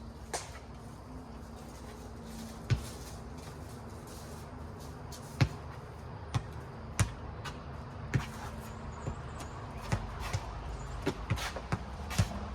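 Rubber playground ball bouncing and being struck during a game of four square: irregular sharp smacks, coming more often near the end. A faint steady hum lies underneath for the first two-thirds.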